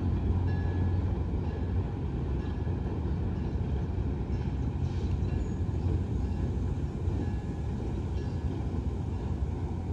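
A passenger train rolling across a steel vertical-lift truss bridge: a steady low rumble.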